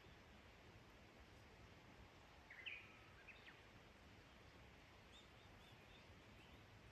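Near silence: faint outdoor background with a few bird calls, the clearest a short chirping phrase about two and a half seconds in, and a few softer chirps later on.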